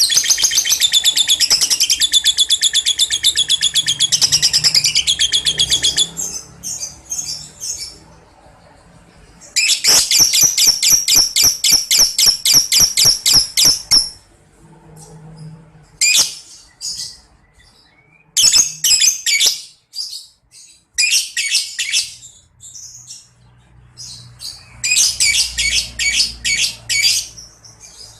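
Lovebird singing 'ngekek': long, shrill, rapid chattering trills, one unbroken run for the first six seconds and another about ten seconds in, then shorter bursts.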